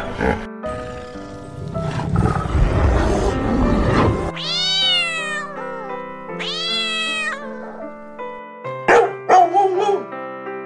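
Over background music, a hippopotamus gives a rough, low, noisy call for the first four seconds. A kitten then meows twice, each meow rising and then falling in pitch. Near the end a Cavalier King Charles spaniel barks several times, short and sharp.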